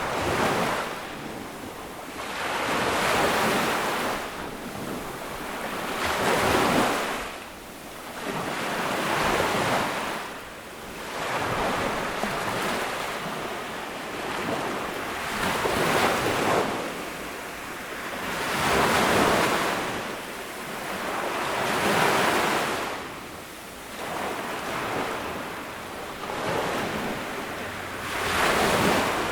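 Small ocean waves washing onto a tropical sandy beach, one after another every few seconds, each rising and falling away, with wind on the microphone.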